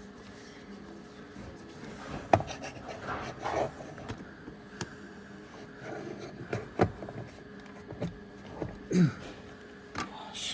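Handling noise in a car's footwell: scattered clicks, knocks and rustling as a cable and tool are handled, with a short low falling grunt-like sound about nine seconds in.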